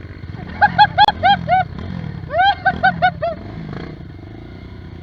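An animal calling in quick runs of short, pitched notes, about five a second, over the low steady rumble of trail motorcycle engines idling.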